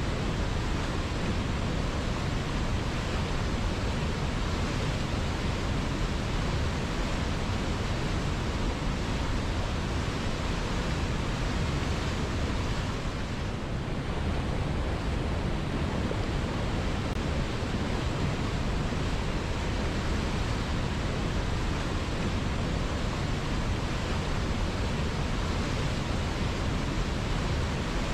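A river flowing: a steady, even rush of water with no separate splashes, briefly a little softer about halfway through.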